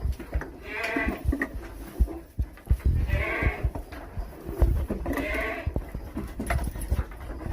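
Goat bleating three times, about two seconds apart, each call a wavering cry lasting about half a second, with scattered knocks and a low rumble underneath.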